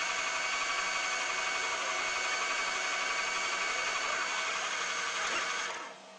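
CNC polygon lathe machining: a steady mechanical whine with several held tones over running noise. It drops away sharply near the end.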